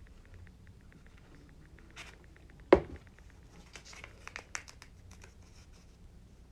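Construction paper being handled and pressed together, with light crinkling and rustling and a scatter of small clicks. A single sharp knock a little under three seconds in is the loudest sound.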